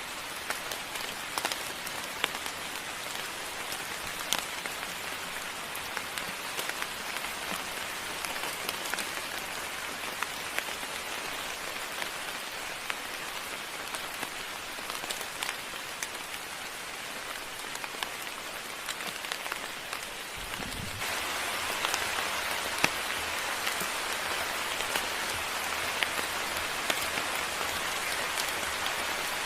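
Steady rain falling, with individual drops ticking sharply through the hiss. About two-thirds of the way through, the rain abruptly becomes louder, just after a brief low thump.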